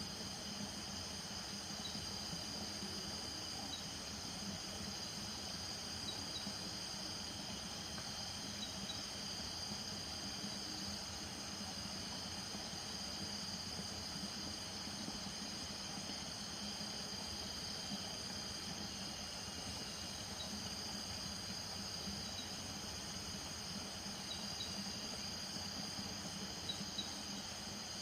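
Night chorus of crickets and frogs: several steady high-pitched cricket trills layered together over a low steady frog chorus, with a few short high chirps here and there.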